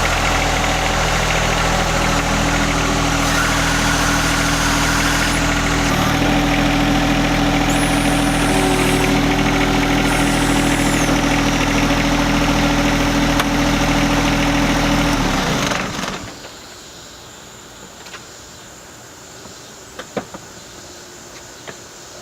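John Deere 1025R sub-compact tractor's three-cylinder diesel engine running steadily, its note changing about six seconds in, then shut off a little after two-thirds of the way through. A few faint clicks follow.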